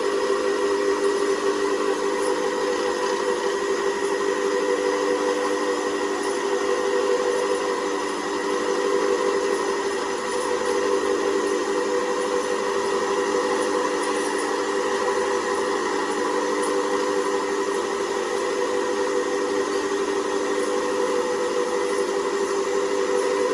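A workshop machine running at a steady speed: an unchanging hum made of several steady tones over a noise, with no breaks.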